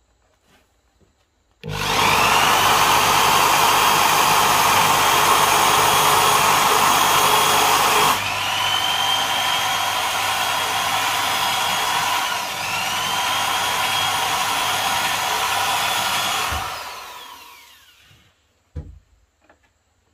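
Handheld electric power tool running for about fifteen seconds: its motor whine rises as it spins up, dips and climbs back twice, then winds down with a falling whine. A single knock follows near the end.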